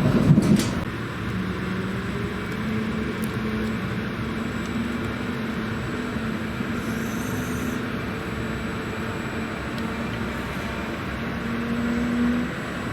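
Regional passenger train running along the track: a steady rumble with a low hum that rises slightly in pitch and stops near the end, after a louder rush in the first second.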